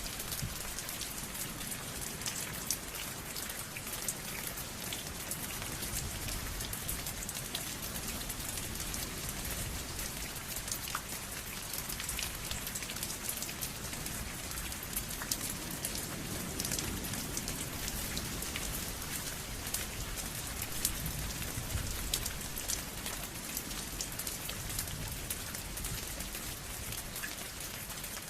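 Steady rain falling, a continuous hiss with many distinct drops ticking on a surface.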